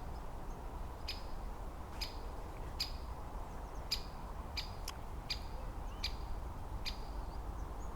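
A small bird giving short, sharp ticking calls, about a dozen at uneven spacing, each with a brief high note, which sound like an alarm or keep-out-of-my-territory call.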